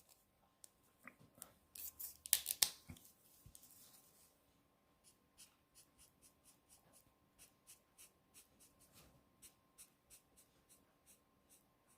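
Faint scratching of a blending marker's tip being stroked over cardstock in short, even strokes, about two or three a second, as colour is laid into a stamped flower. A few louder clicks and knocks in the first three seconds.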